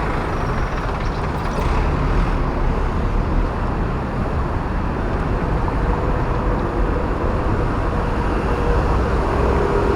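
Steady road traffic noise from a busy city highway, heard from a moving bicycle: a continuous rumble of passing cars and buses, with a faint steady engine hum joining about halfway through.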